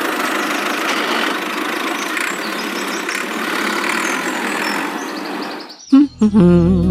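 A small engine-like motor running steadily with a rough, rattly texture. It stops just before the end, and upbeat children's music starts about six seconds in.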